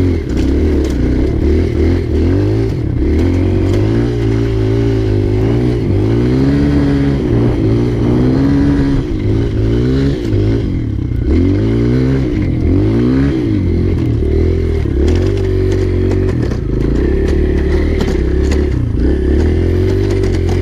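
Dirt bike engine running under way, its pitch repeatedly rising and falling as the throttle opens and closes and the gears change.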